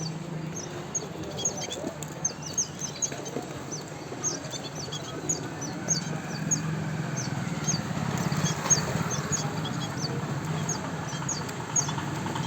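Small caged birds chirping: a run of quick, short, high chirps, several a second, over a steady low hum.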